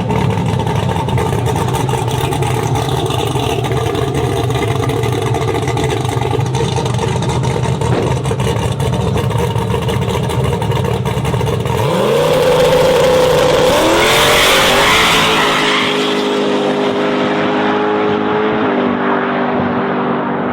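Twin-turbo Chevy Silverado's engine idling with a steady rumble, then about twelve seconds in revving up hard on launch. Its pitch climbs and steps down at a gear change as it accelerates away and fades.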